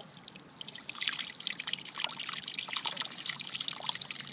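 Water sloshing and trickling in quick, irregular drips and small splashes as hands scoop a bullfrog tadpole out of the water.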